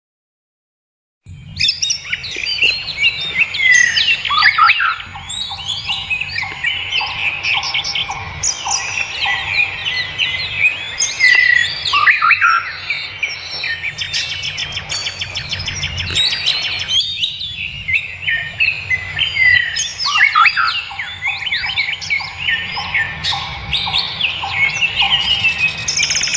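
A dense chorus of many wild songbirds chirping and singing together, with several repeated series of short, evenly spaced lower notes. It starts after about a second of silence.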